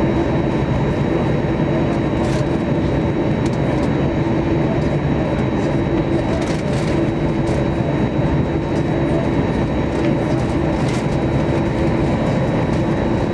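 Airliner cabin noise heard from a front seat: a steady rumble and hum of the jet's engines and its rolling on the ground, with a few faint clicks.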